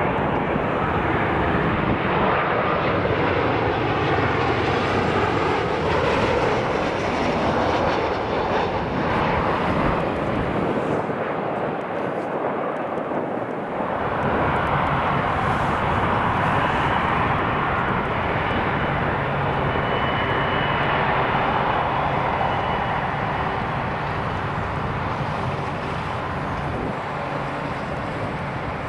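Jet airliner engines running loud, a dense rushing roar whose tone sweeps slowly as the aircraft passes, with low rumble from strong wind on the microphone.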